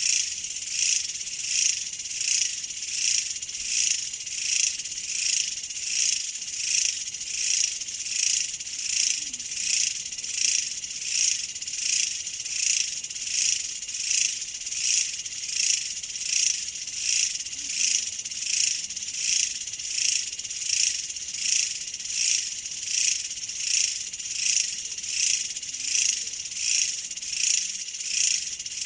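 A chorus of insects, crickets or similar, trilling high-pitched in even pulses of about one and a half a second, without a break.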